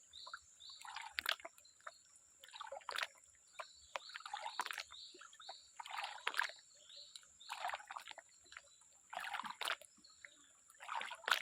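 Water sloshing in a gold-panning dish (dulang) as it is swirled and dipped, in even splashes about every one and a half to two seconds.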